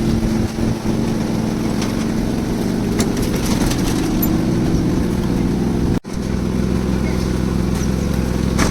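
Concrete mixer's engine running steadily at a construction site. The sound breaks off about six seconds in and resumes with a deeper hum.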